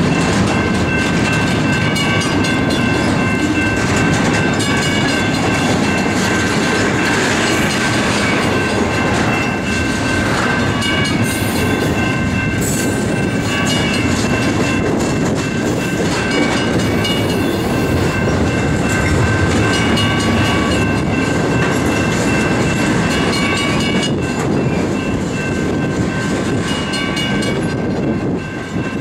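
Double-stack intermodal container train on well cars rolling slowly past. Its wheels rumble and clatter steadily on the rails, with thin, steady, high-pitched squeals over the rumble.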